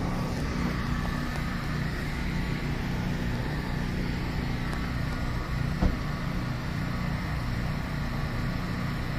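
Steady road and engine rumble of a moving car heard from inside the cabin, with a single short knock about six seconds in.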